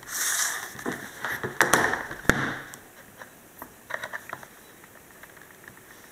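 Handling noise and a few sharp clicks as the laptop is switched on. These give way to faint, irregular crackling static from the Dell Precision M3800 laptop, which the owner hears only while it is plugged into mains power.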